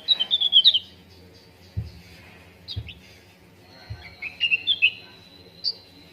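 Cucak ranting bulbul song: quick runs of high chirping notes right at the start and again about four and a half seconds in, with a few soft low thumps between them.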